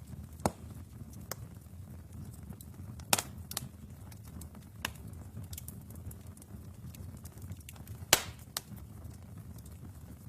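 Wood fire burning in a fireplace: a steady low rumble of flame with sharp crackles and pops from the burning logs, about eight in all, the loudest two about three seconds in and near eight seconds in.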